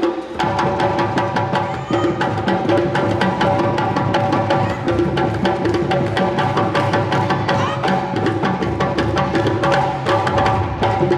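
Live percussion ensemble playing a fast, driving drum rhythm, with sustained pitched melody tones over the drumming.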